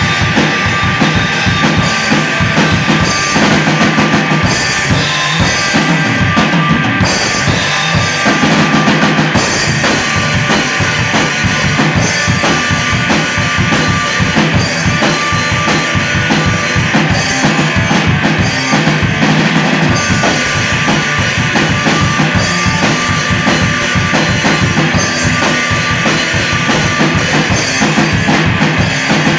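Loud live rock band playing, with a full drum kit driving the beat: bass drum and snare hits run steadily under the other instruments.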